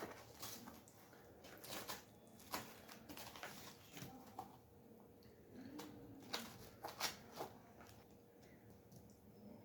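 Close-miked chewing of cheesy pizza: soft, irregular wet mouth clicks and smacks.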